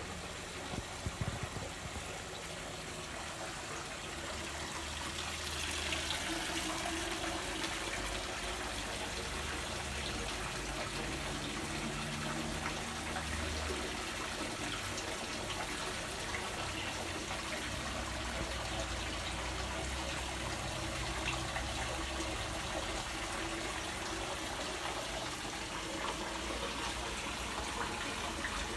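Water running steadily, with a few light clicks about a second in; the flow grows louder over the first several seconds and then holds steady.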